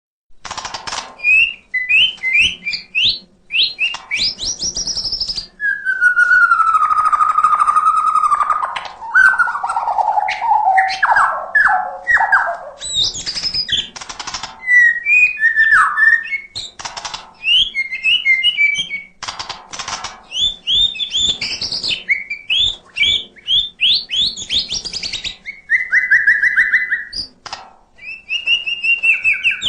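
White-rumped shama (murai batu) singing in full, continuous song: varied clear whistled phrases, falling glides and rapid chattering strings with short pauses between them, packed with mimicked sounds (isian), including a long falling whistle about six seconds in.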